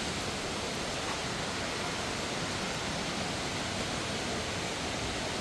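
Steady rush of water, a mountain waterfall or water pouring over rocks, an even noise with no breaks.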